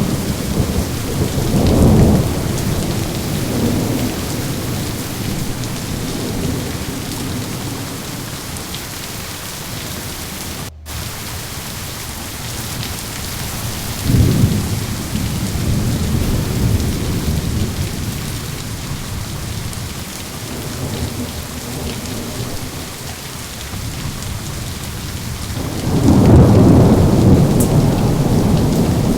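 Steady heavy rain with rolling thunder: a rumble a couple of seconds in, another about halfway, and the longest, loudest one near the end.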